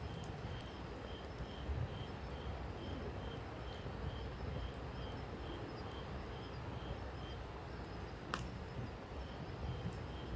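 Wood campfire burning with faint crackles and one sharper pop near the end, over a low rumble. An insect, a cricket-like chirp, repeats about three times a second.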